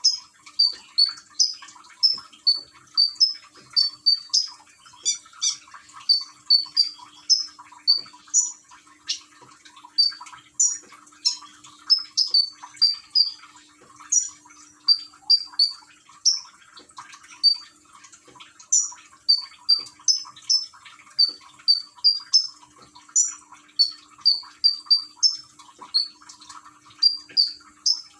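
Konin songbird chirping over and over in short, sharp, high notes, about two a second, over a steady trickle of running water used as 'gemercik air' therapy to set the bird singing.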